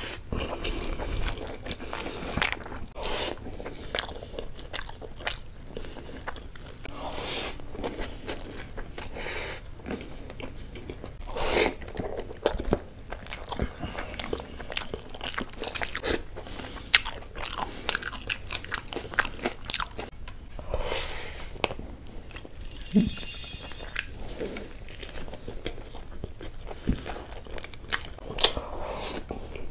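Close-miked mukbang eating sounds: a man chewing mouthfuls of biryani and curry, with many irregular sharp clicks and short wet strokes as he eats with his hand.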